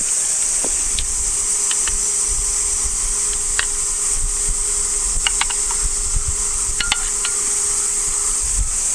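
Steady cicada chorus, a high continuous drone, with a few scattered light clicks and knocks.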